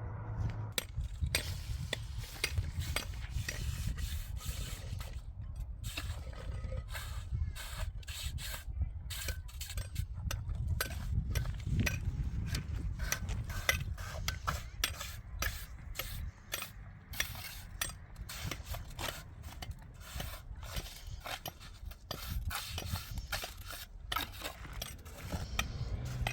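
An irregular run of many short knocks and scrapes, over a steady low rumble.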